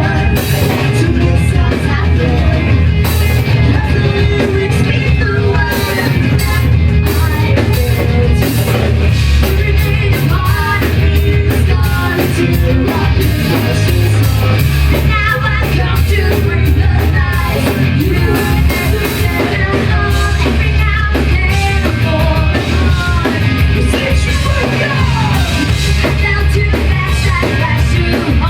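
A live rock band playing loud, with singing over the band.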